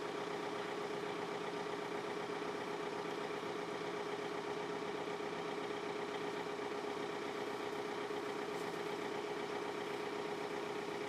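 John Deere 4052R compact tractor's diesel engine idling steadily, an even drone with a constant pitch.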